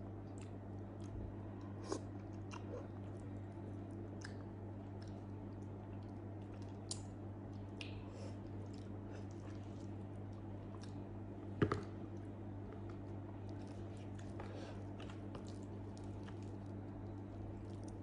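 Close-miked chewing and wet mouth sounds of a person eating grilled eggplant, with scattered small clicks, a sharp click about two seconds in and a louder knock near twelve seconds in. A steady low electrical hum runs underneath.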